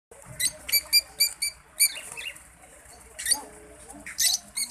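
Small birds chirping: short, sharp, high-pitched chirps, a quick run of about six in the first two seconds and a few more after.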